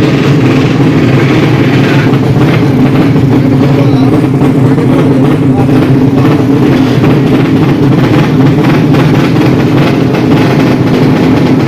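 Drag-racing motorcycle engines running loudly and steadily.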